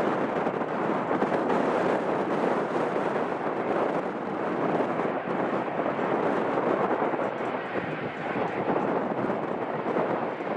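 Jet airliner engines running, a steady rushing noise with no clear tone.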